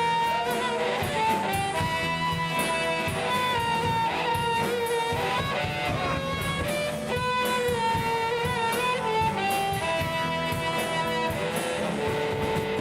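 Live rock band playing an instrumental break between verses: a lead melody line over guitar and a drum kit.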